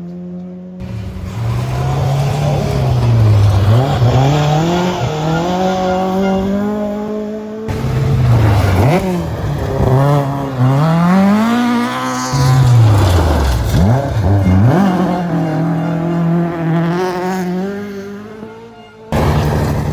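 Rally car engines revving hard, their pitch climbing and dropping again and again as the cars change gear and brake for corners. It comes in several clips of different cars, joined by abrupt cuts.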